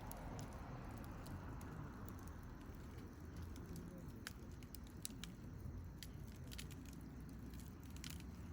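Wood campfire crackling faintly, with a scattering of small sharp pops over a low steady rumble.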